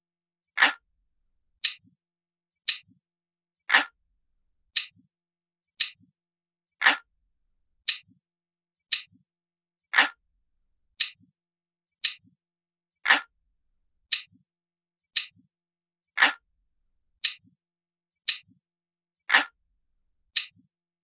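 Glass-like clock ticking sound effect: one crisp, bright tick about every second, with every third tick fuller and louder.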